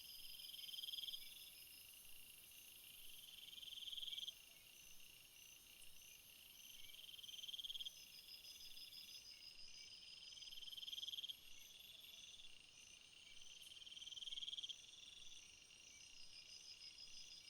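Faint calls of small animals. A buzzing trill swells for about a second and stops abruptly, repeating every three seconds or so, over a steadier, higher pulsing trill.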